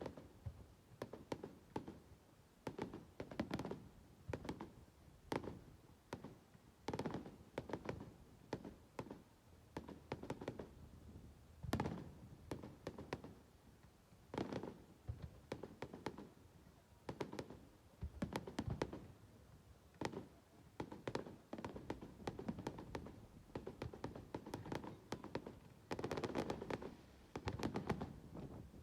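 Faint fireworks display going off: a continuous, irregular run of bangs and crackling pops, sometimes several close together, each with a short echo.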